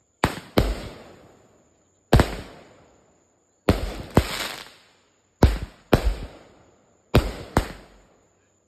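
A consumer firework going off: repeated sharp bangs, mostly in pairs, about five rounds roughly a second and a half apart, each fading out.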